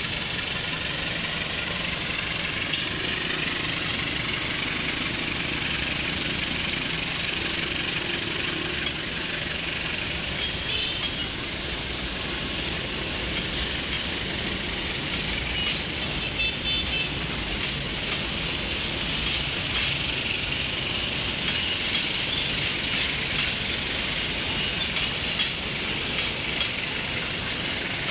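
Passenger train rolling past on a rail bridge: a steady, continuous noise of steel wheels running on the rails, with a few faint high squeals now and then.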